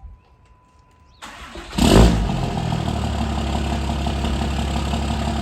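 Diesel truck engine cranking over on the starter, catching with a loud burst about two seconds in, then settling into a steady idle.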